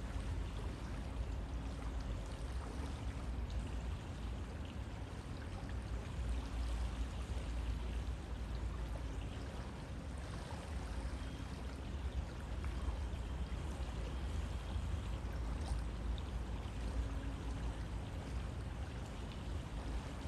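River water flowing steadily: an even rushing with a deep low rumble underneath.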